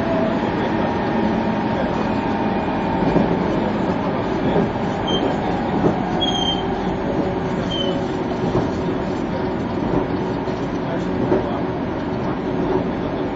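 Running noise heard inside a 373 series electric train: a steady rumble of wheels on rail with a few faint rail-joint knocks. Three brief high squeaks come near the middle.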